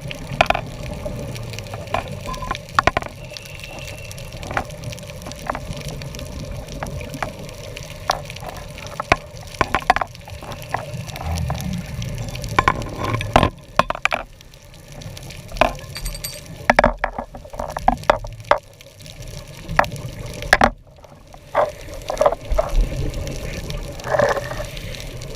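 Underwater recording from a scuba dive: bubbling and gurgling of a diver's breathing air, with many scattered sharp clicks throughout.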